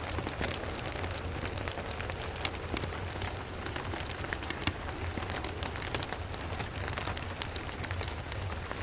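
Steady rain hissing, with many sharp crackles and pops from a wood fire scattered through it, over a low steady rumble.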